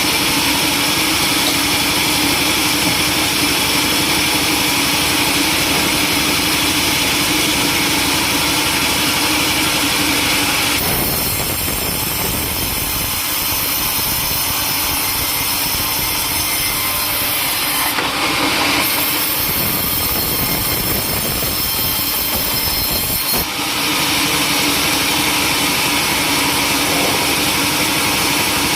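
Sawmill saw running and cutting timber, a loud steady machine noise. Its tone changes abruptly about eleven seconds in and changes back about twenty-three seconds in.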